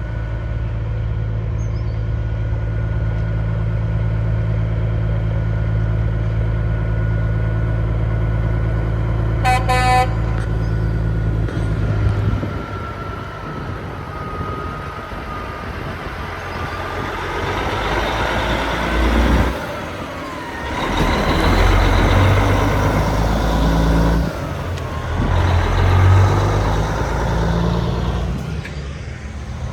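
Diesel semi truck engines: a steady idle at first, a short horn blast about ten seconds in, then trucks pulling past with engines revving and swelling in loudness several times.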